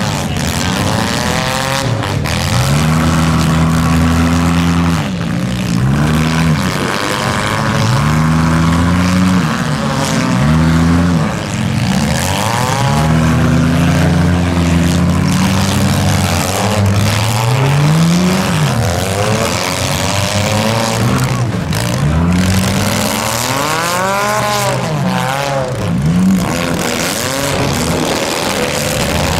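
Engines of several front-wheel-drive compact demolition derby cars revving up and down over and over as the cars shove against each other, with a few sharp crunching impacts.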